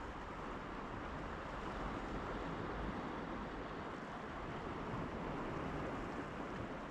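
Sea surf washing against the shore mixed with wind, a steady rush that swells slightly through the middle.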